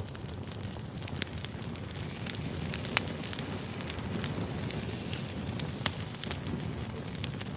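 Firewood burning with a steady low hiss and frequent sharp crackles and pops, two of them louder, about three and six seconds in.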